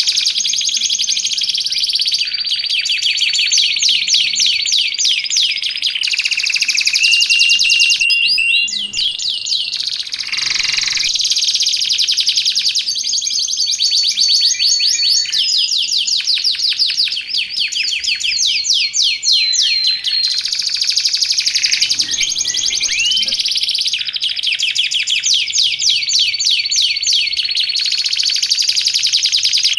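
Domestic canary singing nonstop: long, fast trills of rapidly repeated notes, broken by a few long held whistled notes.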